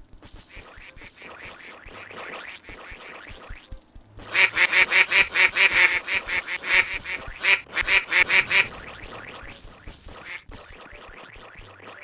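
A bird calling: quieter repeated calls, then about four seconds in a loud, rapid series of harsh calls, about three a second, for some four seconds, before settling back to quieter calls.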